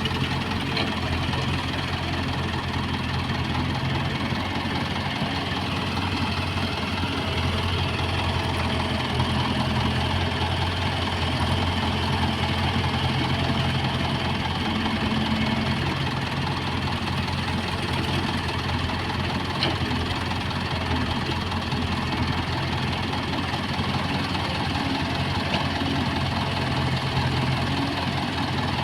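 Diesel engines of an excavator and tractors running steadily at an earthmoving site, a low hum that swells slightly around the middle.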